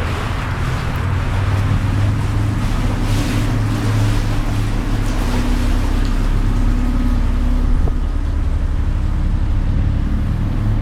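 Tour boat's engine running steadily at cruising speed, a low even hum, with the rush of water and wind over the hull.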